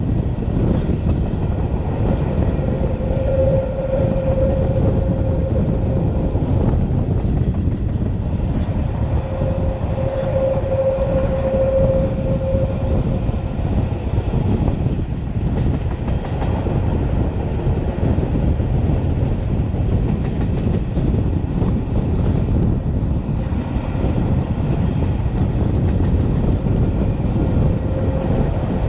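Metre-gauge Matterhorn Gotthard Bahn train, led by an HGe 4/4 locomotive, running with a steady rumble of wheels on rails. Its wheels squeal twice, about three seconds in and again about ten seconds in, each squeal lasting a couple of seconds.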